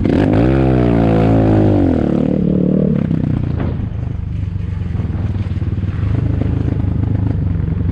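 Enduro motorcycle engine revving: the pitch dips, climbs and drops over the first two seconds, then it settles into a steady low-speed running note.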